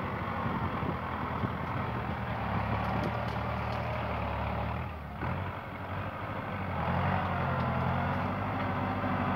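Kubota tractor's diesel engine running steadily; the engine note drops briefly about halfway through and comes back up a couple of seconds later.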